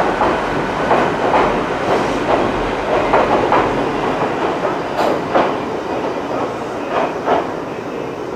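Ichibata Electric Railway electric train rolling away over rail joints. The wheels click in pairs about every two seconds over a steady rumble, fading as the train recedes.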